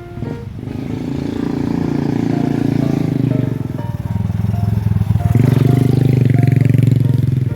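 A small motorcycle engine running close by, with a steady low drone that steps up louder about five seconds in.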